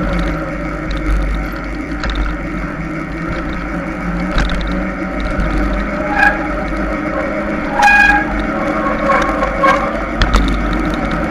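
Mountain bike being ridden on a trail: wind on the microphone and tyres on the ground make a steady rumble, with the bike rattling and clicking throughout. Two short squeals come about six and eight seconds in.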